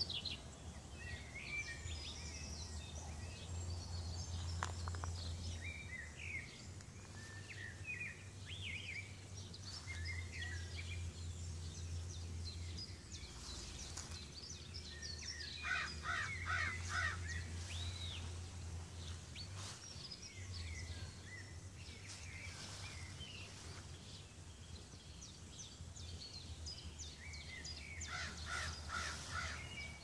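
Several wild birds chirping and calling on and off, with a quick run of repeated calls about halfway through and again near the end.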